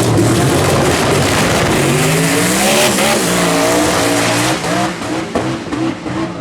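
Twin-turbo V8 dragster engine at full throttle, its pitch rising and falling, then fading after about four and a half seconds.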